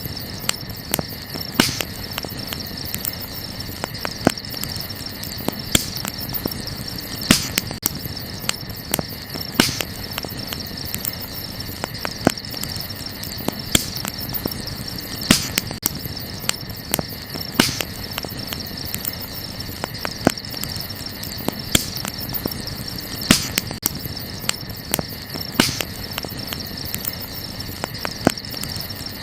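Wood campfire crackling, with sharp pops every couple of seconds and many small clicks between them, over a steady high-pitched chirring of night insects.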